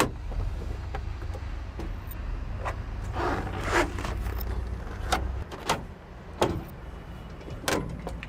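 Sharp knocks and clunks of someone climbing down out of a truck crane's cab, with a rustling scrape about three seconds in and a low rumble underneath that stops about five and a half seconds in.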